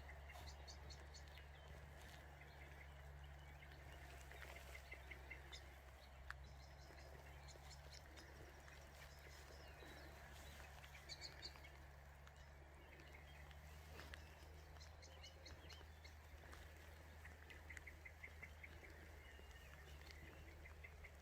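Near silence of open countryside: faint small birds chirping in short repeated runs now and then, over a low steady hum.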